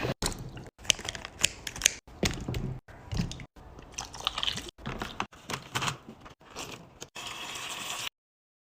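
Restocking sounds of containers and packaging being handled and set down: a quick run of taps, clicks and crinkles, chopped by short edits and cutting off abruptly about eight seconds in.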